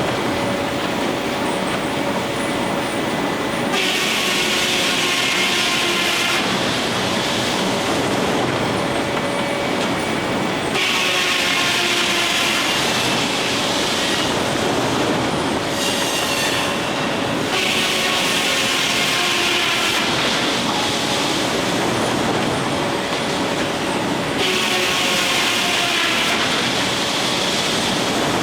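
Steam-driven sawmill's circular saw spinning with a steady whine, then cutting into wood four times about every six to seven seconds. Each cut lasts a couple of seconds and brings a harsh, high rasp, with the blade's pitch falling as it loads.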